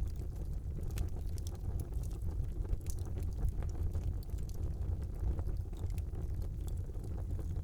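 Wood fire burning in a fireplace: a steady low rumble of the flames with scattered small crackles and pops throughout.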